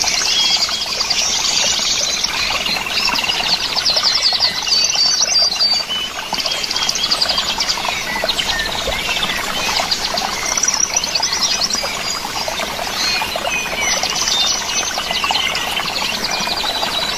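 Small birds chirping and trilling, many short high calls and quick trills overlapping without a break.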